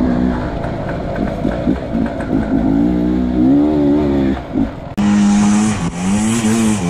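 Enduro dirt bike engine revving, its pitch rising and falling again and again as the throttle is worked, with a brief break about five seconds in.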